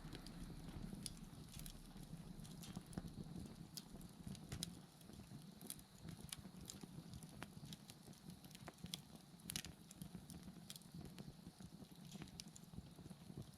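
Bonfire burning quietly, wood crackling with sharp, irregular pops over a low, soft rumble of the fire.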